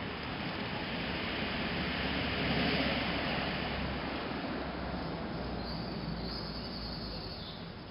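Distant traffic noise: a steady rush with a low rumble that swells about two to three seconds in, then eases off.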